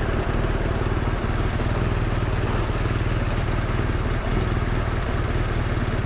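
Motorcycle engine running steadily at low, even revs with a rapid, even pulse and no revving.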